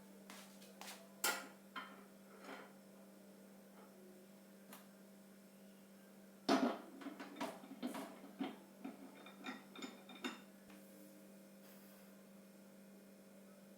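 Dishes and utensils being handled: scattered clinks and knocks in two bursts, a few with a short ringing note, over a steady low hum.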